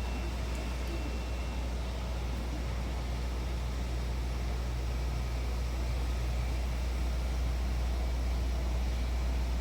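Steady low rumble under an even hiss, the sound of a vehicle's interior.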